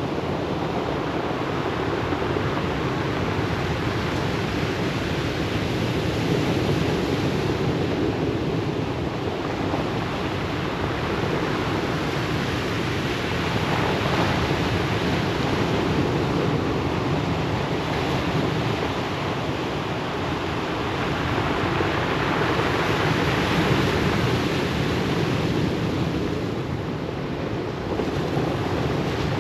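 Ocean surf breaking and washing up a pebble beach: a continuous rush that swells louder several times and eases in between, dipping briefly near the end.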